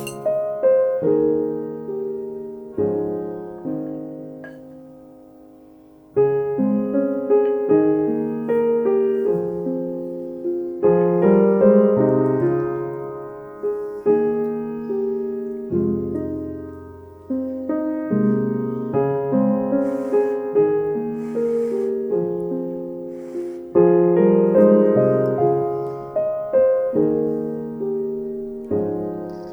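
Gentle solo piano background music, slow phrases of notes that die away, with a pause about five seconds in.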